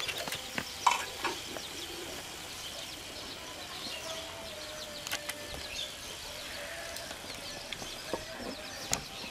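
Jute leaves frying in an aluminium pot: a faint, continuous crackling sizzle with a few louder clicks, one about a second in and one near the end. A faint steady hum runs through the middle.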